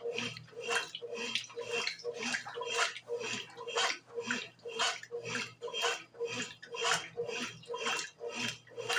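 Brastemp BWG11 washing machine agitating a load, water and laundry sloshing in a steady rhythm of about two to three surges a second over the low hum of the motor.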